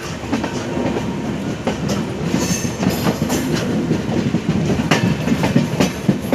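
Train running on rails: a steady rumble with irregular clicks and knocks as the coach wheels clatter over the track.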